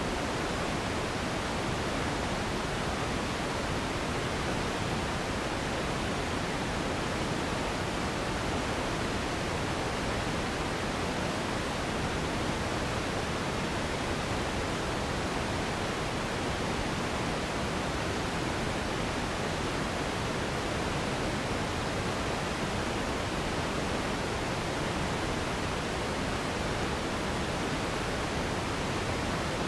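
Steady, unchanging synthetic noise of the pink-noise kind played as a sleep sound, an even hiss that is fuller in the low and middle range than in the highs.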